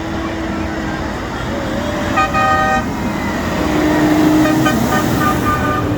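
Tractor engines running, with a horn tooting for about half a second two seconds in, then two shorter toots near the end.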